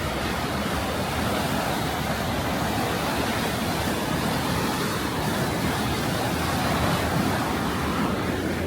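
Steady rushing noise of a waterfall's falling water, loud and unbroken.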